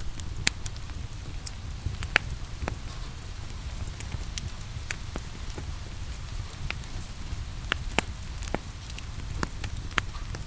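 Wood fire crackling, with irregular sharp pops and snaps, a few louder ones about two, eight and ten seconds in, over a steady low rumble of the flames and a soft even hiss of rain.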